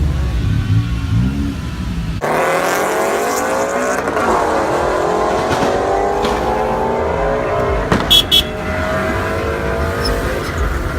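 Car engine running hard: about two seconds in it jumps to high revs, and its pitch climbs steadily as the car accelerates. Two short, loud, high-pitched chirps come about eight seconds in.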